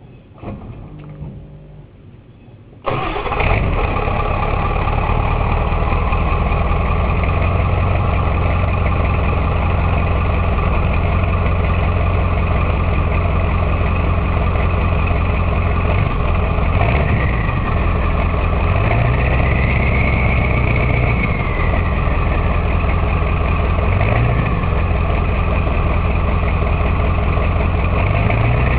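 Straight-piped 1995 Ford F-350's 7.3-litre Powerstroke V8 turbo-diesel starting up: it fires suddenly about three seconds in, then idles loudly through the open exhaust. It is given a few brief, gentle revs near the middle.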